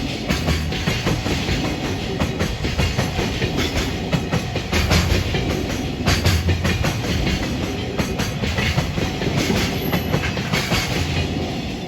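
Freight train rolling past close by: a steady rumble of wagons with rapid clacking of wheels over rail joints.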